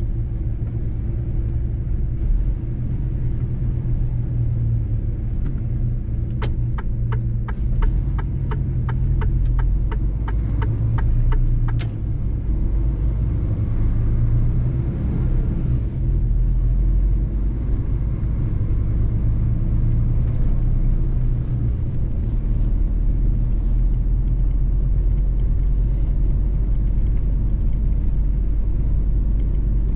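Mercedes-Benz truck driving along, a steady low engine and road rumble. Partway through, a run of about a dozen even ticks, roughly two a second, lasts about five seconds.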